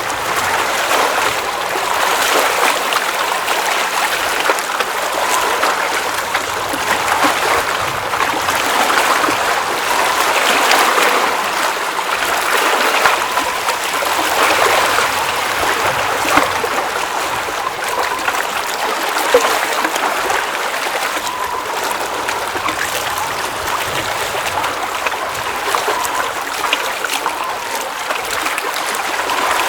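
Water at a mountain lake running and splashing steadily, with small trickles and splashes through it.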